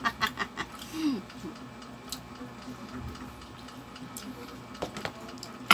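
Eating sounds from chewing food taken by hand: scattered mouth clicks and smacks, a quick run of them at the start and single ones later, with a short hummed 'mm' about a second in, over a faint steady hum.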